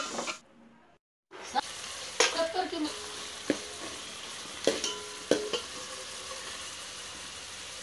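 Oil sizzling steadily as chopped pieces fry in an open pressure cooker pot, with a steel ladle stirring and knocking against the pot's metal side several times, each knock ringing briefly.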